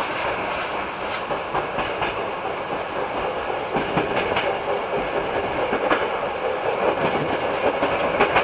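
Hankyu 8000 series electric train running, heard from inside the cab: a steady rolling noise with irregular sharp clacks as the wheels pass over rail joints and the junction's points, growing a little louder towards the end.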